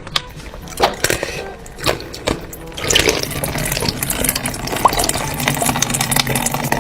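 Liquid running or being poured, with scattered clicks and knocks; it grows louder about three seconds in.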